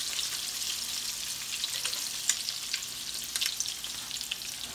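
Salmon patties frying in hot vegetable oil in a cast-iron skillet: a steady sizzle with scattered crackling pops, one louder pop about two and a half seconds in.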